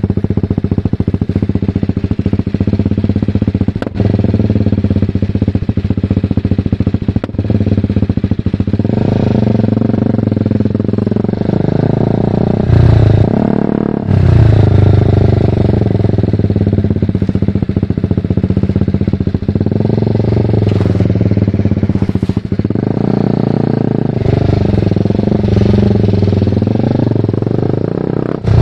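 BMW G310R's single-cylinder engine running through a full Mivv aftermarket exhaust while riding. It holds fairly steady for the first several seconds, then revs up and falls back several times as the bike accelerates and shifts, loudest about halfway through.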